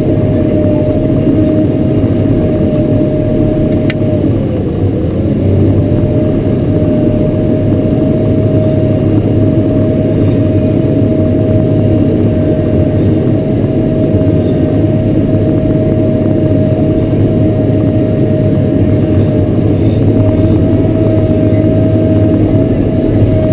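Caterpillar 140K motor grader's diesel engine running steadily under working load, with a steady high whine over it. About four to five seconds in the whine sags briefly in pitch, as the engine is pulled down by the load, then comes back up; a single click sounds just before.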